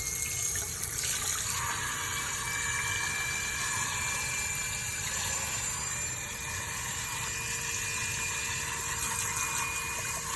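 Tap water running steadily, splashing onto a microwave exhaust grease filter as it is rinsed to wash off the loosened grease.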